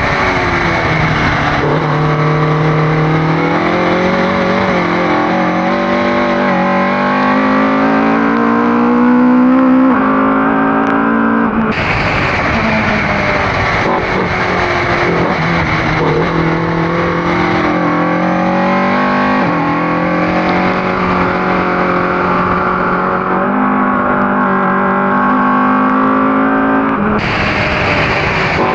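Ford Cortina race car's engine under hard acceleration on track. Its pitch climbs and drops back sharply at each gear change, several times.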